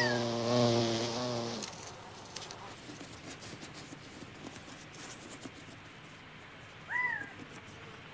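Large carpenter bee buzzing in flight, a steady low drone that sags in pitch and fades out after about a second and a half. It is followed by faint scratching and ticking, and a single short rising-and-falling bird chirp near the end.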